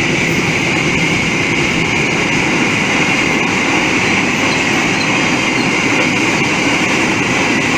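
Train passing close by: a steady, loud rumble of wheels on the rails with a constant high ringing hiss over it.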